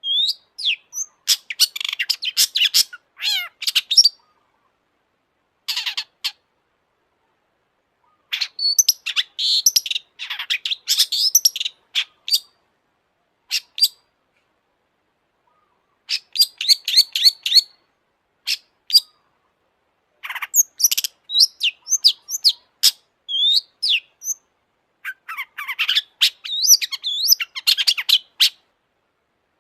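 Long-tailed shrike (cendet) singing: bursts of rapid high chirps and clicking notes, each phrase lasting one to four seconds, broken by silent gaps.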